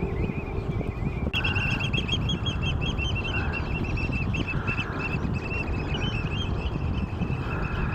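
A flock of oystercatchers giving rapid, continuous high-pitched piping calls, many birds overlapping, starting about a second in; this is typical of their mating-season chasing and piping. Under it runs a steady low rushing noise.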